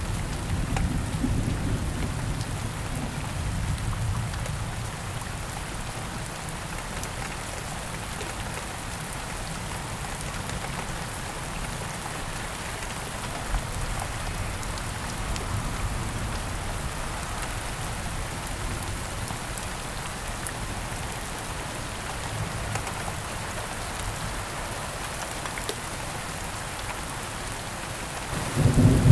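Steady rain falling with rolling thunder: a low rumble fades away over the first few seconds, and a louder peal of thunder breaks in right at the end.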